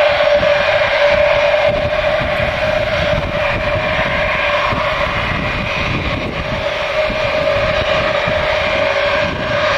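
Douglas DC-8's Pratt & Whitney JT3D turbofan engines running, with a steady high-pitched scream over a crackling roar.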